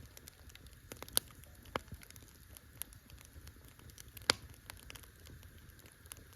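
Campfire crackling: irregular small snaps and pops, with two sharper, louder pops about a second in and just past four seconds in, over a faint steady hiss.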